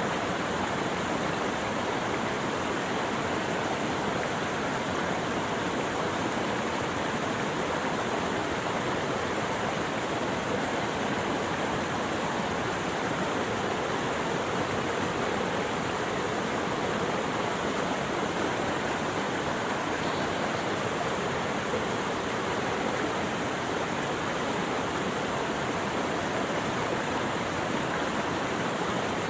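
Steady rushing of flowing water, an even unbroken wash with no change in level.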